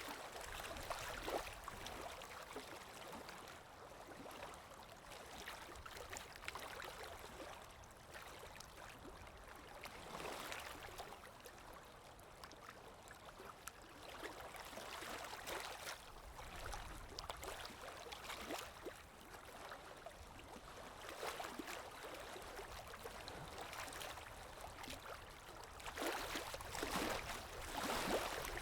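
Watercolour paintbrush working on paper: soft swishing strokes that swell and fade irregularly, with a longer run of strokes near the end.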